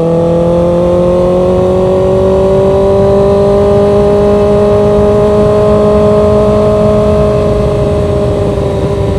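Motorcycle engine running at steady cruising revs, the pitch rising gently over the first few seconds and easing slightly near the end, over a low rumble of wind noise.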